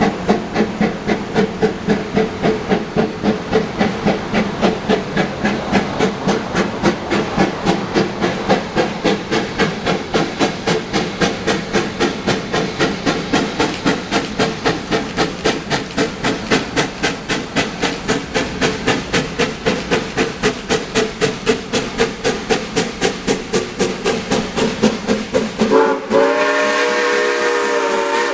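S160 steam locomotive working uphill under load, its exhaust chuffing steadily at about three beats a second. Near the end the steam whistle blows for about two seconds.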